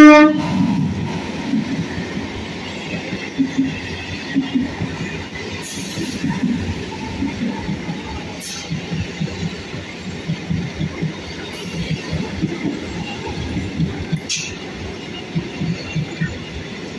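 BEML electric multiple unit train running past at speed: a steady rush of wheels and coaches with a continuous clatter of wheels over rail joints and a few sharp clicks. A dubbed-in horse whinny cuts off at the very start.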